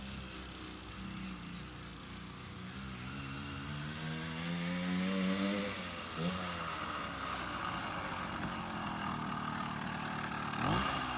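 Small 80cc two-stroke bicycle-kit engine on a minibike revving up under way, its pitch climbing steadily for about five seconds, then dropping briefly and picking up again.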